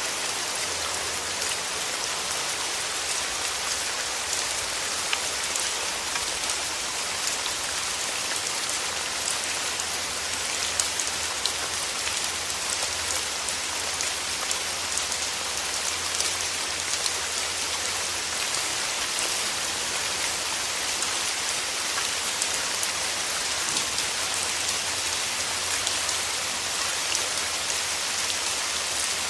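Steady rain falling, a continuous hiss dotted with sharp ticks of individual drops striking nearby.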